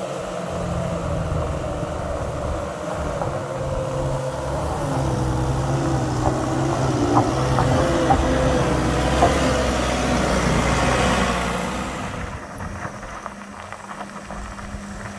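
A motor vehicle's engine running as it climbs past, growing louder to a peak and then fading about twelve seconds in. A few sharp clicks or knocks come near the loudest part.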